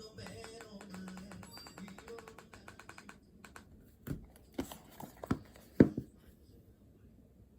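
Faint background music for the first few seconds, then about five sharp taps on a hard surface between four and six seconds in, the last the loudest.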